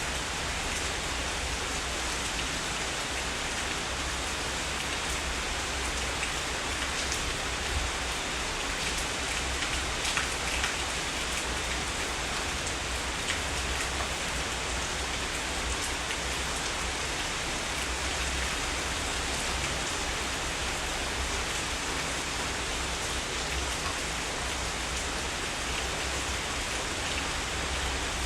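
Steady heavy rain falling, an even dense hiss with scattered sharper drop ticks here and there.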